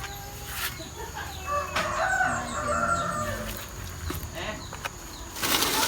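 A rooster crowing once, a drawn-out call of about a second and a half starting about two seconds in. A brief rustling noise comes near the end.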